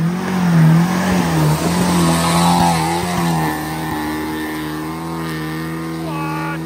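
Sports car's engine pulling hard up a steep, loose, muddy hill climb. The engine note wavers in pitch for the first few seconds, then holds steady and fades as the car climbs away.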